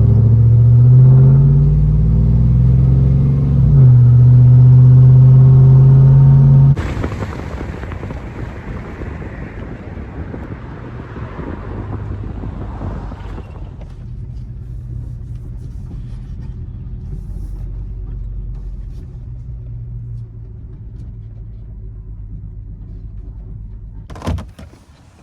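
Truck engine and exhaust droning loudly while driving, the pitch gliding as it revs. About seven seconds in it cuts suddenly to a rushing road noise, which settles to a quieter low steady rumble, and a single knock comes near the end.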